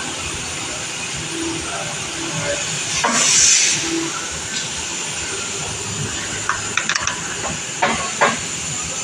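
A loud burst of hissing air about three seconds in, over a steady background hiss, then several sharp metallic clicks and taps near the end.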